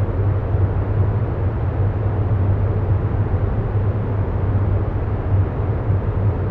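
Steady low droning noise with a strong hum near 100 Hz, constant in level throughout.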